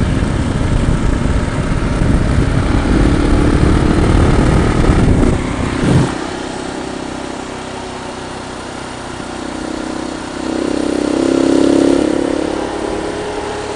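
Motorcycle on the move, engine running under a heavy low rumble that drops away suddenly about six seconds in. The engine note then rises and falls once near the end.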